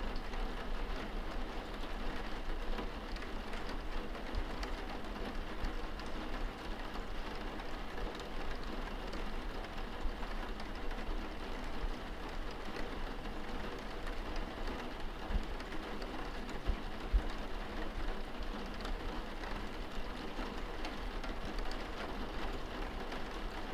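Steady rain on window glass heard from indoors: an even patter of drops, with a few soft low thumps about two-thirds of the way through.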